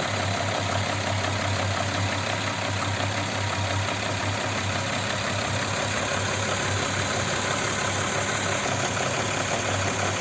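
Audi Q7 3.6 FSI VR6 engine idling steadily while warming up, with a rattling knock that comes in as the engine warms and grows with temperature. The owner suspects the camshaft phaser.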